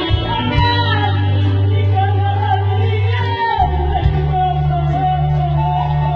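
A singer's solo voice holding and bending long melodic phrases over music with long held bass notes.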